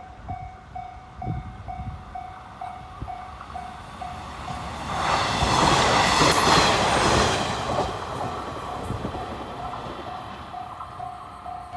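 An electric train rushes past at speed, its noise swelling to a peak about five seconds in and fading away over the next few seconds, with wheels clattering over the rail joints. A level crossing alarm rings steadily about twice a second throughout, drowned out while the train passes.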